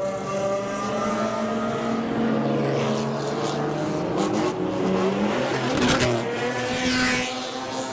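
Several modified kaido-racer and classic cars with loud exhausts running and revving together, engine notes rising and falling, with a sharp crack about six seconds in.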